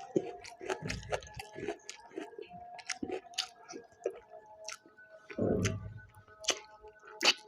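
Close-miked eating: chewing with many short wet mouth clicks and smacks, and two low thuds, one about a second in and one past the middle.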